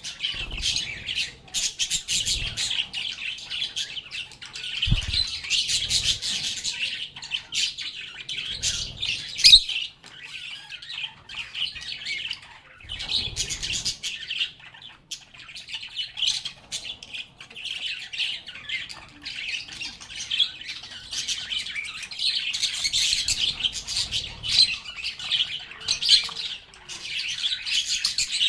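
A group of lovebirds chattering continuously with shrill chirps and squawks, with a few soft low thumps among them.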